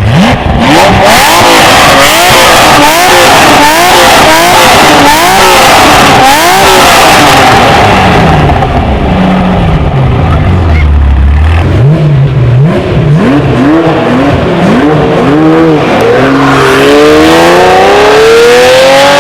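Ferrari Testarossa flat-12 with a Fuchs exhaust being revved hard: a rapid string of short blips, a brief drop back toward idle, more blips, then one long rising rev near the end. Very loud.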